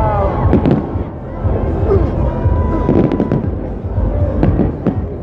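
Fireworks display going off: repeated sharp bangs and crackles over a constant low rumble of bursts.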